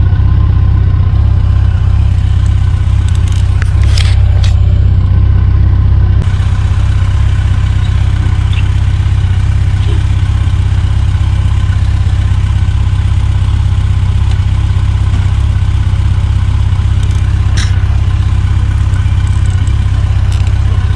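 Motorcycle engine running steadily at low speed, with a loud, even low hum and a few brief clicks.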